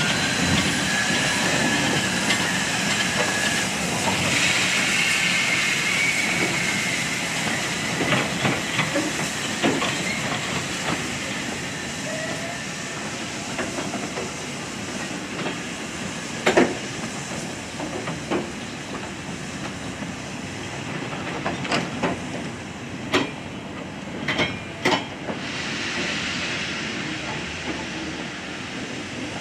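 Steam train running, with a steady hiss of steam over a noisy rumble that is strongest in the first few seconds and then eases. Sharp, irregular clicks and knocks come through in the second half.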